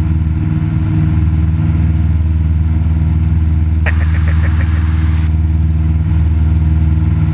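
Cessna 172 Skyhawk's piston engine and propeller droning steadily in flight, heard inside the cabin. About four seconds in comes a brief run of rapid clicks, about six in under a second.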